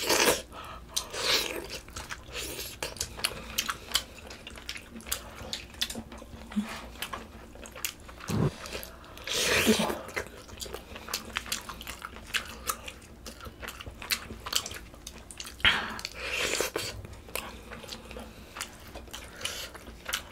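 Close-miked eating sounds of pork-bone soup (gamjatang): steady chewing with many small wet mouth clicks. There are a few louder moments, right at the start, about 10 seconds in and about 16 seconds in.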